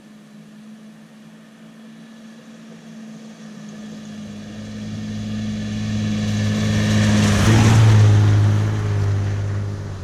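2000 Jeep Cherokee XJ engine running as the Jeep drives up and past, growing steadily louder to a peak about eight seconds in with a rush of noise, where its pitch drops, then fading off.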